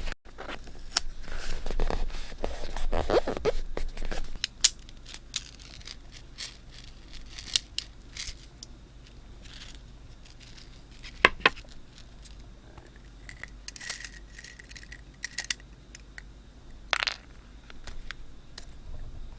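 Paper and stationery being handled while scrapbooking. There is rustling and scraping for the first few seconds, then scattered light clicks and taps.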